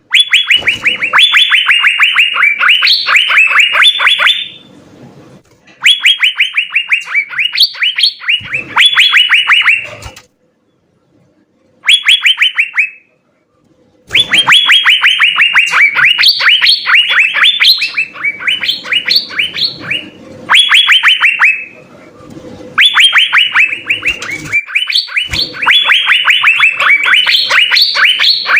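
Asian fairy-bluebird (cucak biru) in full song: loud, rapid runs of short whistled notes, several a second, in phrases of a few seconds broken by short pauses.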